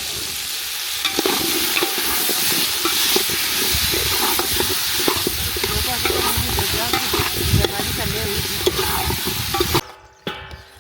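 Food frying and sizzling in a pan while a utensil stirs and scrapes it, with many small scrapes over a steady hiss. The sound cuts off suddenly near the end.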